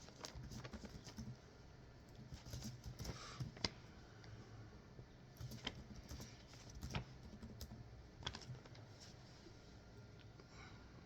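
Faint, irregular keyboard typing and clicking, in short runs with pauses between them.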